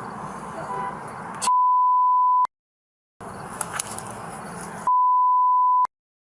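Two one-second 1 kHz censor bleeps about three seconds apart, each cutting off into a moment of total silence: audio redaction tones dubbed over the body-camera recording. Between them is a steady background hiss.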